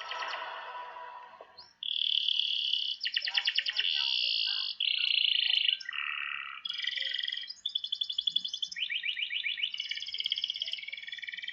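A recording of a small songbird singing: a string of high, clear chirped phrases broken by rapid trills, with a short patch of noisier sound at the start.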